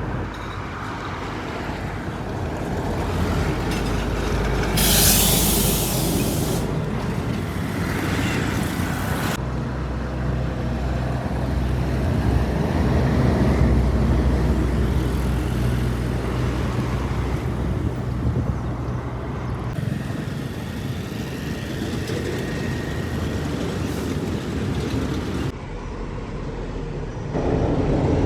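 Heavy trucks' engines running and driving by on the road, in several clips cut together, with a loud hiss lasting a second or two about five seconds in.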